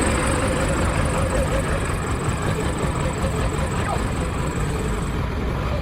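Backhoe loader's diesel engine running steadily, a constant low rumble.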